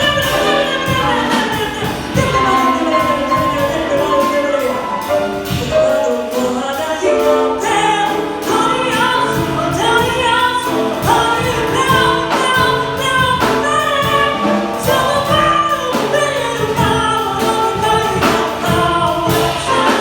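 A woman singing a slow song over instrumental accompaniment with a steady beat.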